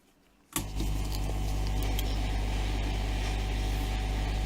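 Hot air rework station switching on about half a second in, then running steadily: the low hum of its air pump under an even hiss of blowing air.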